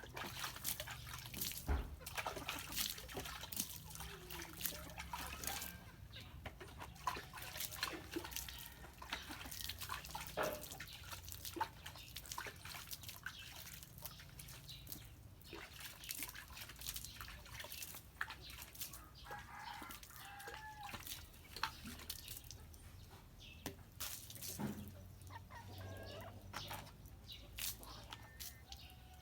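Water splashing and dripping in many short splashes as soapy old car tyres are rinsed clean. Chickens cluck in the background, one call standing out about two-thirds of the way in.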